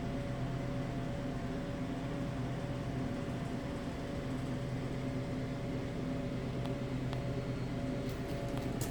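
A steady mechanical hum with a few fixed tones over a low even noise, with a few faint clicks near the end.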